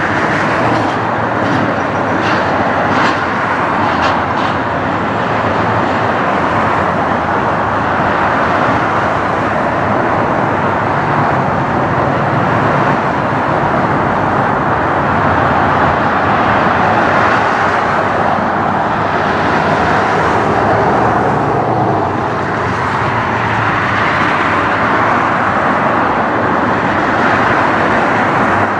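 Jet airliner engines, a loud steady rush of noise that swells a little past the middle and dips briefly near the end.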